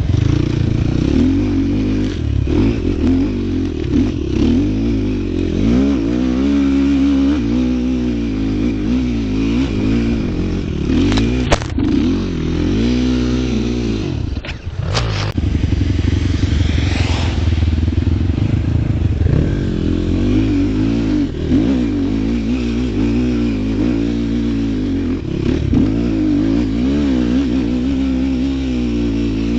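A vehicle engine running hard, its pitch rising and falling again and again as it revs up and eases off. A couple of sharp clicks come through about eleven and fifteen seconds in.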